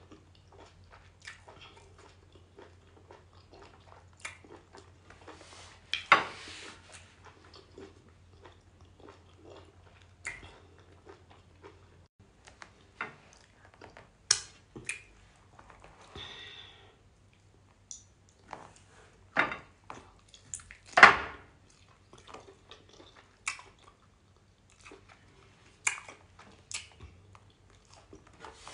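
Close-miked chewing and wet mouth sounds of someone eating soup-soaked meat with her fingers: soft lip smacks and clicks throughout, with finger-licking, and two much louder smacking slurps about six seconds in and again near twenty-one seconds.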